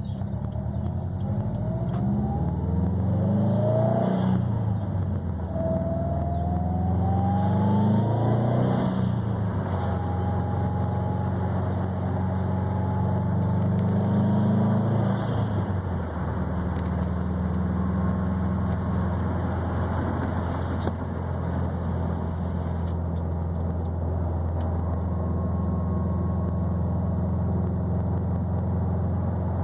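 2020 Subaru WRX STI's turbocharged flat-four running through an ETS quiet catback exhaust with a resonated mid pipe, pulling up through the gears with a rising pitch and a faint rising whine, the pitch dropping at each shift. About halfway through it settles into a steady drone at cruise.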